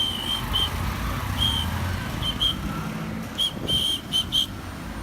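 A series of short, high-pitched whistle-like chirps, some coming in quick pairs and thickest near the end, over a steady low rumble of traffic.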